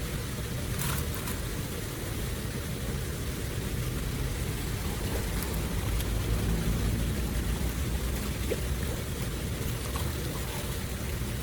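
Steady rushing of floodwater draining away: a constant noise with a heavy low rumble and no pauses.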